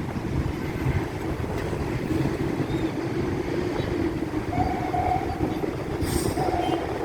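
Steady low rumble of heavy road traffic, with a short hiss about six seconds in.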